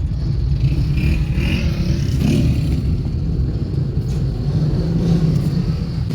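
Motor vehicle running along a road: a steady low rumble of engine and road noise.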